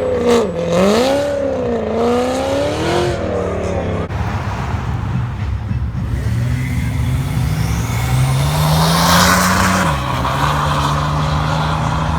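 Car engines revving as cars pull out. In the first few seconds an engine's pitch swings up and down. Then one engine climbs steadily in pitch as the car accelerates away, drops sharply about ten seconds in at a gear change, and runs on at a steady pitch.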